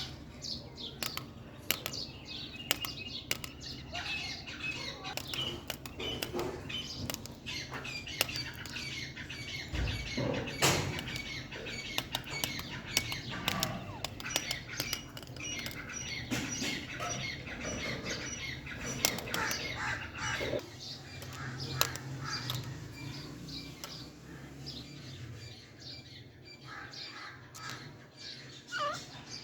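Grey francolins with their chicks making many short chirps and squawks, mixed with frequent sharp clicks and taps.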